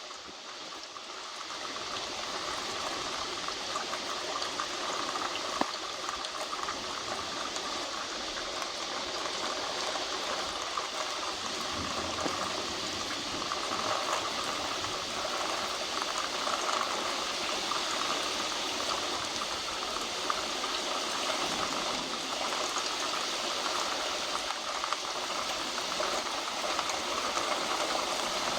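Heavy thunderstorm rain pouring down in a steady dense hiss, getting louder over the first couple of seconds and then holding steady.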